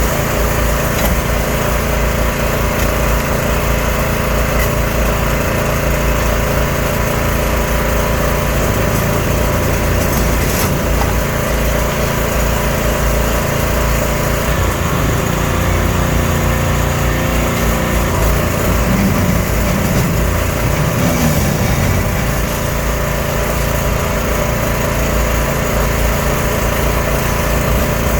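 Diesel engine and hydraulics of a 0.7 m³-class semi-long-reach excavator running steadily while demolishing a building frame. About halfway through, a few low tones rise and fall as the machine works, and there is a faint knock about ten seconds in.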